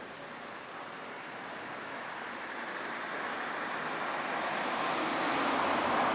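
A passing road vehicle, its noise growing steadily louder toward the end. Faint rapid insect chirping, about seven pulses a second, runs through the first part.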